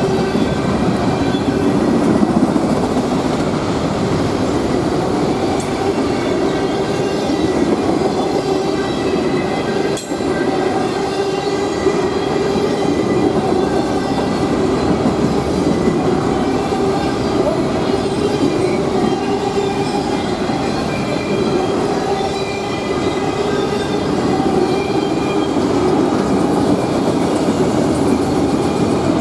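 Freight train cars rolling steadily past, a continuous rumble of wheels on rail with a thin, steady wheel squeal above it and a brief lull about ten seconds in.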